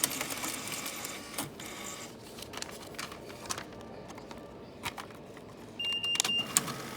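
Automatic cash payment machine of a self-checkout register taking in the inserted money: its mechanism whirs and clicks as it handles the cash. A short electronic beep sounds about six seconds in.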